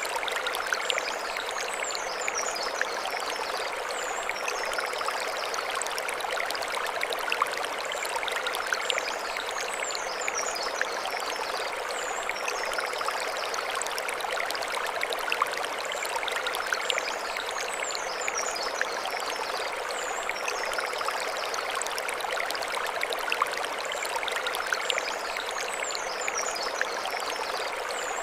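Mountain stream flowing steadily over stones, an even rush of water. Short runs of high chirps come back every eight seconds or so.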